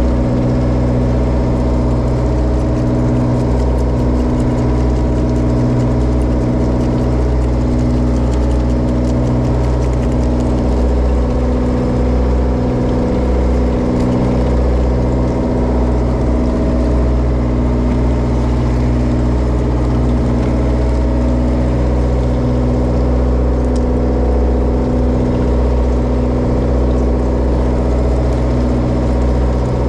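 Bottom-trawler fishing boat's diesel engine running steadily at a constant pitch.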